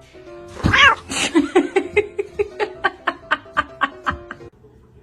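A cat gives a loud meow that rises and falls, then a fast, even run of about a dozen short yelps, roughly four a second, over background music.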